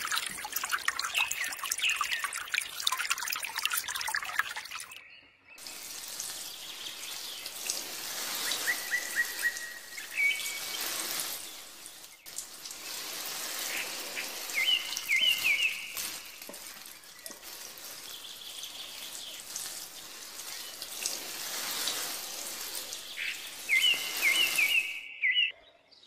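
Water trickling and sprinkling from a small metal toy watering can, a steady stream broken by two short breaks. A few short bird chirps come in several times.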